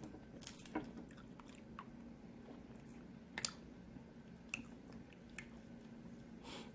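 A person chewing food close to the microphone, with faint, irregular wet mouth clicks and smacks over a low steady hum.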